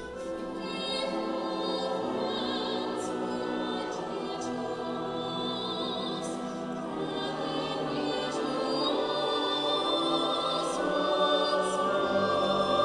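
A choir singing slow, sustained chords, with vibrato in the high voices.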